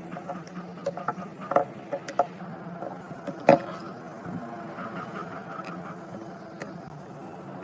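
Scattered clicks and knocks of tools and small parts being handled, with one sharper knock about three and a half seconds in, over a steady low hum.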